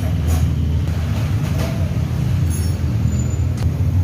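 Steady low engine rumble of running vehicles, with a few light clicks over it.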